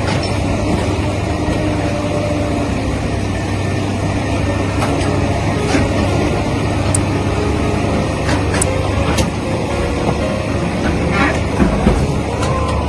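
Heavy vehicle engine running steadily, with a low drone and scattered clicks and knocks over it.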